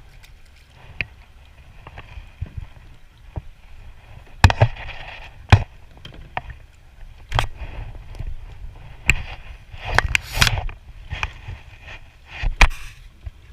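Kayak paddling: irregular sharp knocks of the paddle against the kayak's hull, some followed by brief splashes of water, the loudest about four and a half and five and a half seconds in.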